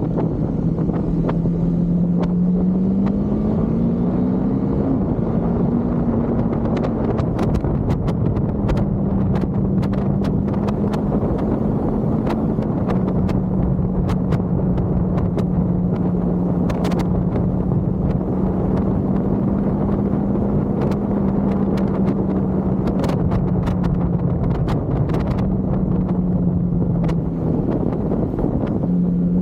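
Husqvarna Svartpilen 401's single-cylinder engine pulling under way, its pitch rising over the first few seconds as the bike speeds up, then holding steady at cruising speed. Heavy wind noise buffets the microphone throughout, with scattered sharp ticks.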